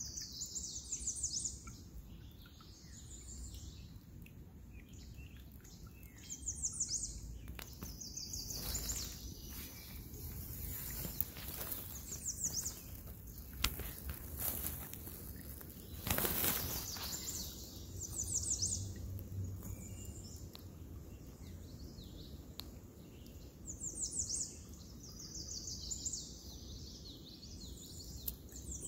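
Wild songbirds singing short, high trilled phrases every few seconds, over a low steady outdoor background hum. About sixteen seconds in comes a brief rush of noise.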